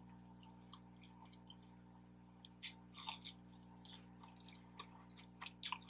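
Faint chewing and mouth sounds of a person eating, with a few soft crunches around the middle.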